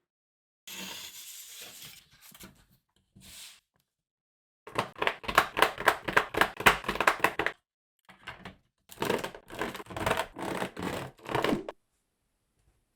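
Plastic Lego Technic parts rattling and clattering in two runs of rapid clicks, each lasting about three seconds, with softer scraping and rustling before them.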